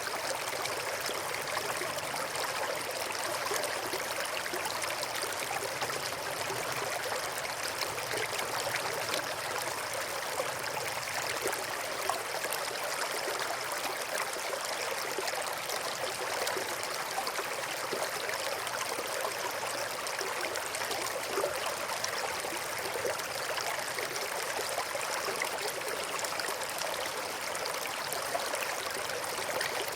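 A small river flowing over and between rocks: a steady rushing, burbling water sound that does not change.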